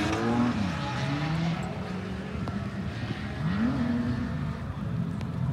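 Drift car engine revving: its pitch drops about half a second in, holds low, then climbs again about three and a half seconds in.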